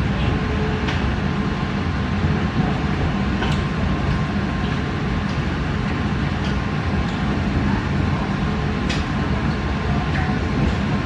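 WEST EXPRESS Ginga train running, heard from inside the passenger car: a steady low rumble with a few faint scattered clicks and rattles.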